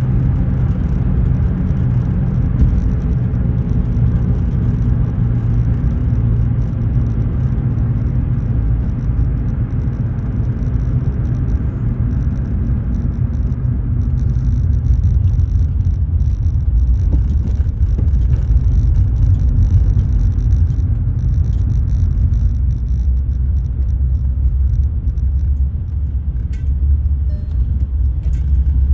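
Car cabin noise while driving: a steady low engine and road rumble, its hum dropping in pitch about halfway through, with a few light clicks near the end.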